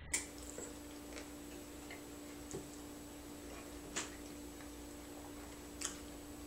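A person eating a hamburger: a few sharp mouth clicks and smacks while chewing, four in all, the first the loudest, over a faint steady hum.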